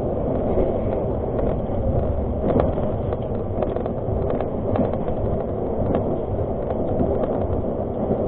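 Argo Parahyangan passenger train running on the rails: a steady rumble with scattered short clicks and knocks.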